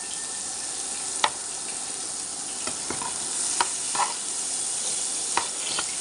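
Pork frying in bubbling oil and fish sauce in a pan, sizzling steadily. A few sharp clicks and pops stand out, the loudest about a second in.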